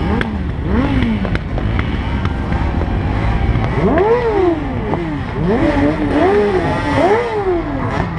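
Several motorcycle engines revved hard over and over, each rev climbing and dropping back within about a second. From about four seconds in the revs come thick and fast, overlapping one another, over a steady low rumble.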